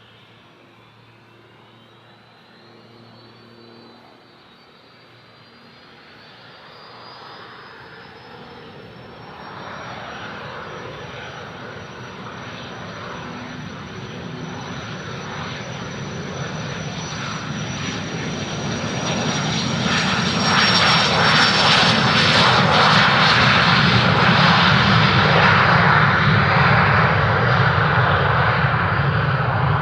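Cessna Citation CJ1's twin Williams FJ44 turbofans at takeoff power, a high whine rising in pitch as the business jet rolls and climbs out. The noise builds steadily and is loudest about two-thirds of the way through as the jet passes.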